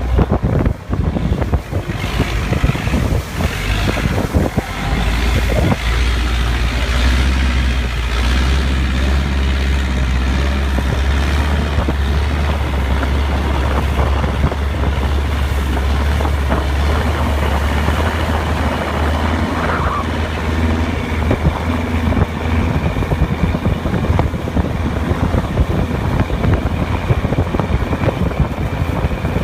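A boat's engine running steadily, a constant low hum under rushing noise, with wind buffeting the microphone. The hum settles in about four seconds in.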